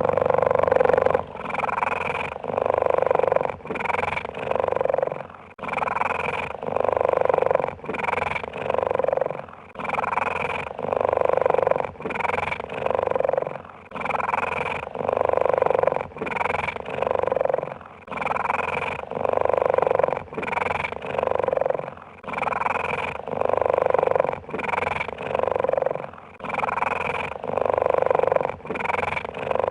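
Cheetah purring steadily, the purr swelling and easing in a regular cycle of about four seconds as the cat breathes in and out.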